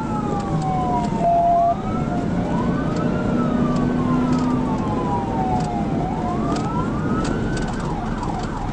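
Police cruiser siren on a slow rising and falling wail, two wails overlapping, with a brief loud steady tone about a second in, over steady road and engine noise from the car at pursuit speed.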